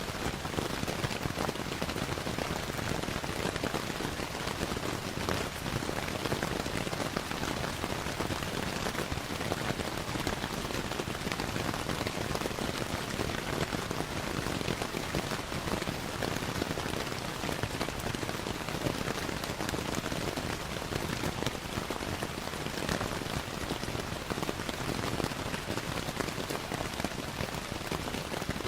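Steady rain falling, an even hiss of many fine drops, mixed with the scattered crackle of a wood fire in a fireplace.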